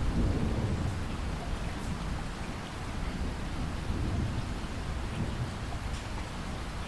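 Steady rain hissing, with distant thunder rumbling low underneath it. The rumble swells just after the start and again about four seconds in.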